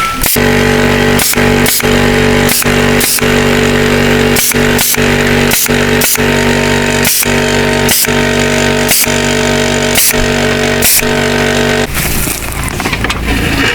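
A motor running steadily at one pitch, broken by sharp ticks every half second or so, then stopping about twelve seconds in.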